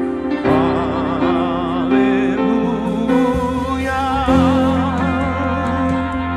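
Slow Christian worship music: a voice sings with wide vibrato over held chords, and a deep bass note comes in about halfway through.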